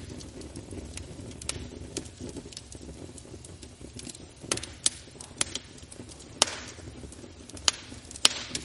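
Wood fire burning in a fireplace: a steady low rush of flame with sharp, irregular crackles and pops, about eight of them, the loudest a little past halfway and near the end.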